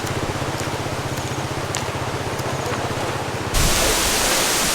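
A small engine idling with a fast, even throb. About three and a half seconds in it cuts off abruptly into a steady rushing noise.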